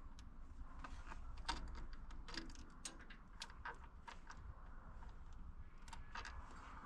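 Faint, irregular light clicks and taps of hand tools and small hardware being handled at a tractor's starter solenoid terminal.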